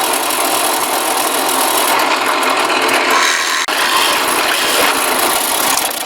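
Drill press boring into a maple block with a one-inch Forstner bit: a loud, steady cutting noise over the motor's hum, with a brief break about three and a half seconds in. It stops at the very end.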